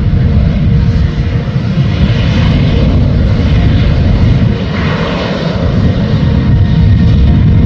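Airliner jet engines running loud with a deep, steady rumble, easing slightly about five seconds in and building again near the end.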